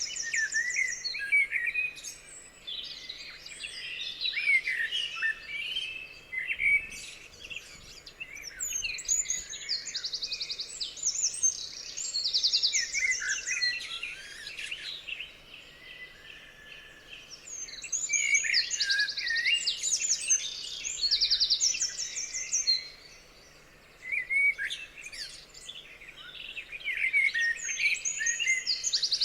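Several songbirds singing at once: overlapping chirps, whistled phrases and fast rattling trills, with a brief lull about three quarters of the way through.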